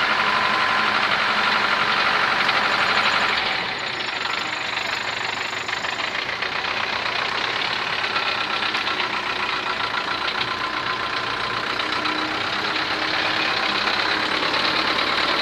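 Diesel engine of heavy earthmoving machinery running steadily. It gets somewhat quieter about three and a half seconds in, then holds at that level.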